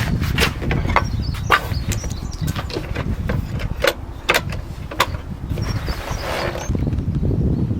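Irregular sharp knocks and clicks over a steady low rumble, with a few faint high chirps.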